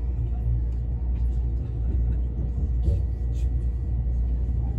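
Steady low rumble of an E657 series electric train running, heard from inside the passenger cabin: wheels on rails and the car body.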